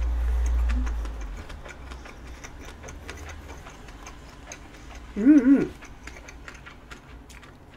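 Close-miked chewing of a mouthful of rolled omelette: many small wet clicks and smacks from the mouth, with a low rumble in the first second or so. About five seconds in comes a short hummed two-note "mm-mm" of enjoyment.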